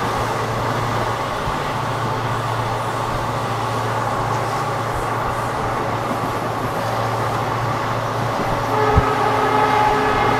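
ICF passenger coach running at speed: a steady rumble of wheels on rail with a low drone underneath, and a single sharp knock about nine seconds in. Near the end a sustained chord of several steady tones joins in.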